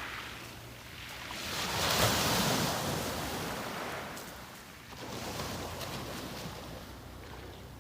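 Sea waves washing up a beach and drawing back: one surge swells to its peak about two seconds in, and a second rises about five seconds in.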